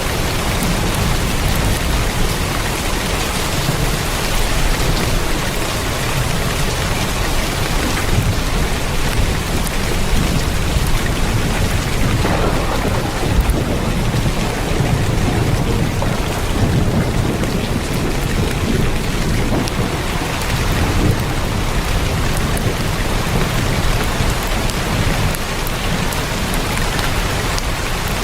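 Heavy rain falling steadily on a tin roof, a dense even patter with a constant low rumble underneath.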